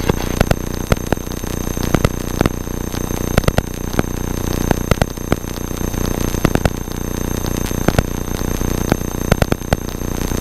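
Cessna 172's four-cylinder piston engine droning steadily inside the cabin, heard through a headset/intercom feed full of crackling interference: rapid irregular clicks and a faint steady high whine over the hum.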